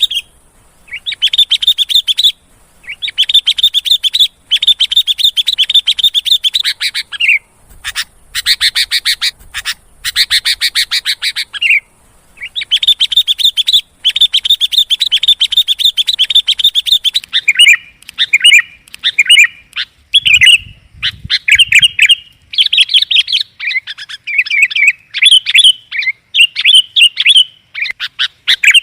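Sooty-headed bulbul (kutilang) calling as a lure: long runs of rapid, chattering notes broken by short pauses, changing in the second half to shorter, more varied phrases.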